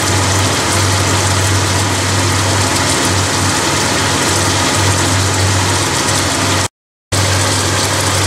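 Beef and vegetables sizzling and bubbling in oil and broth in a wok on the hob, over a steady low hum. The sound cuts out for a moment about seven seconds in.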